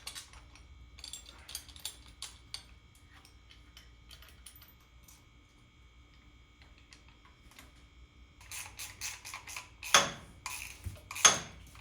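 Light metallic clicks and clinks of engine parts being handled and test-fitted, quieter in the middle. Near the end comes a quick run of clicks and then two louder knocks.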